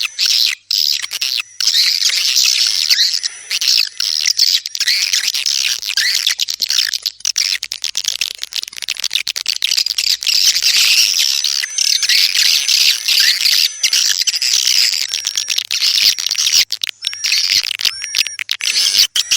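Swiftlet calls: a dense, continuous chatter of many high twittering chirps, with repeated hooked chirps above it and brief abrupt gaps. It is a swiftlet lure sound of the kind played to attract the birds to a nesting house.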